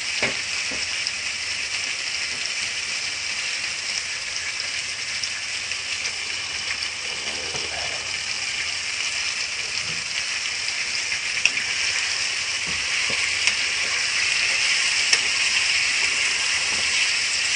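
Chicken liver sizzling in a pot, a steady hiss, with a few sharp clicks in the second half as a wooden spatula knocks against the pot while stirring.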